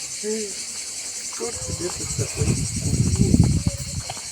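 Insects chirring steadily and shrilly in the background. A short arching pitched call comes just after the start, and from about a second and a half in, loud low rumbling and knocking, like wind and handling on the microphone, covers the lower sounds.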